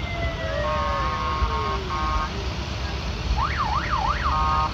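Vehicle horns and a siren sounding over a low engine rumble. A long falling wail fades out about two seconds in, while two short chord-like horn blasts sound. About three-quarters of the way in come three quick rising-and-falling siren whoops, followed at once by another horn blast.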